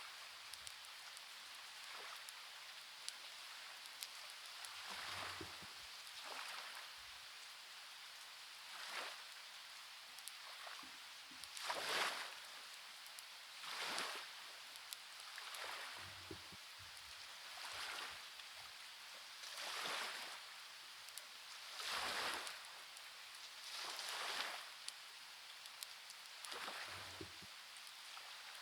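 Rain and surf ambience: a steady hiss that swells about every two seconds, with scattered small clicks.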